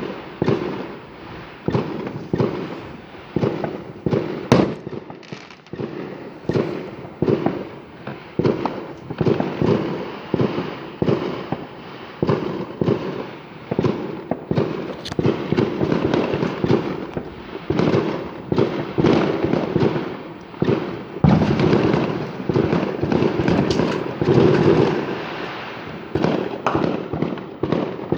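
Fireworks going off without pause: many bangs and crackles in quick, overlapping succession, growing denser and louder about three-quarters of the way in.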